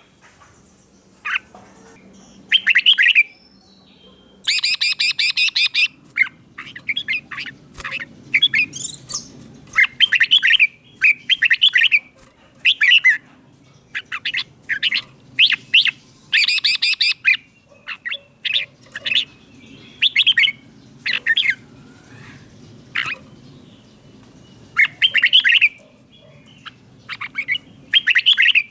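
Red-whiskered bulbul singing short, rapid phrases of bright chirpy notes, one after another every second or two with brief pauses between them, over a faint low background hum.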